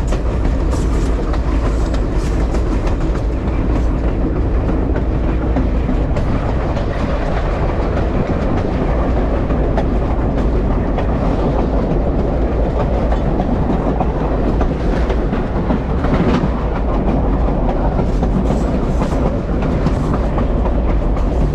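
Passenger train rolling along the track, heard from its rear car: a steady rumble of steel wheels on rail with scattered clicks.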